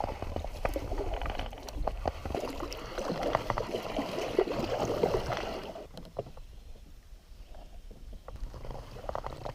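Kayak paddle strokes splashing and dripping in river water, with many small clicks and splashes. About six seconds in, the paddling eases to a few scattered drips.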